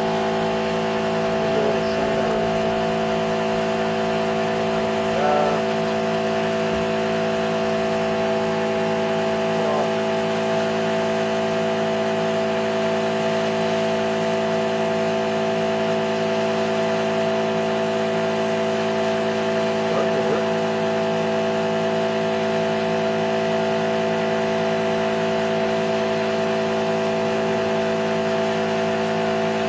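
Shop air compressor running with a steady, unchanging hum, loud enough to drown out speech.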